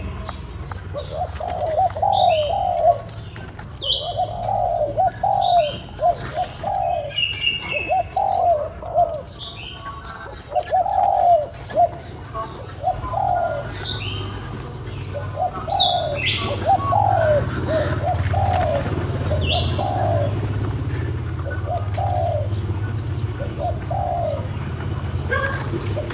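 Spotted dove cooing again and again in short phrases of two to four notes, about every one to two seconds, with brief higher chirps of small birds in between.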